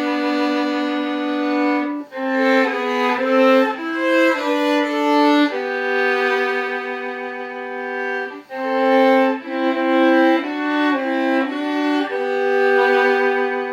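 Solo violin played with a c. 1860 Paris bow of the François Peccatte school: a slow melody of long held notes alternating with quicker phrases of shorter notes.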